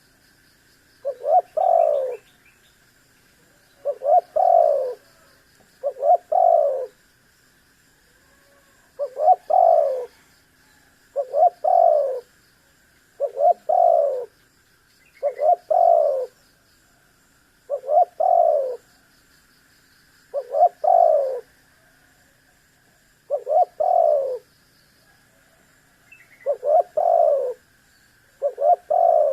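Spotted dove (tekukur) cooing its song over and over: about a dozen phrases, one every two to three seconds, each a quick stutter of notes ending in a falling coo. A faint steady high tone runs underneath.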